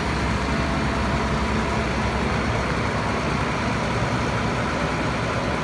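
Bucket truck's engine running steadily at idle, a low even rumble.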